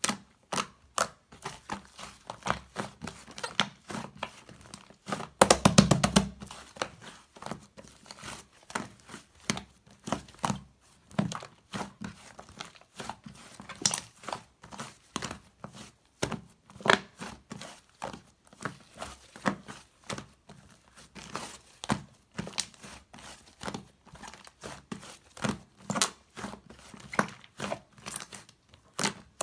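Slime being pressed and kneaded by hand, giving irregular sharp crackling clicks and pops, with a quick dense run of clicks about six seconds in.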